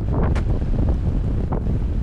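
Strong wind buffeting the microphone, a dense low rumble with a couple of brief noises over it.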